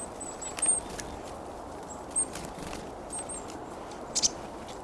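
Black-capped chickadees giving short, very high thin calls several times over a steady background hiss, with a few brief sharp clicks in between, the loudest about four seconds in.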